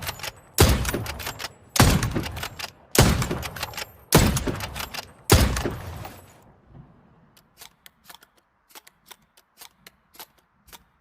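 Hunting rifle shots in a sound-effect recording: five shots about a second apart, each ringing out after it. After the last shot come faint, irregular small clicks.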